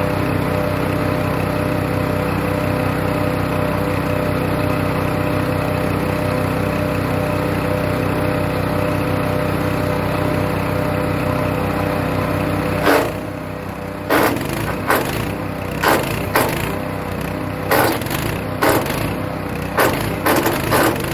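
Wood chipper's petrol engine running steadily. About two-thirds of the way through, the steady engine note gives way to a run of irregular sharp knocks and cracks.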